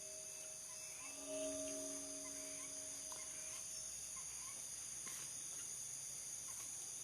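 Steady high-pitched chorus of crickets and other night insects, with a faint low humming tone for a few seconds starting about a second in.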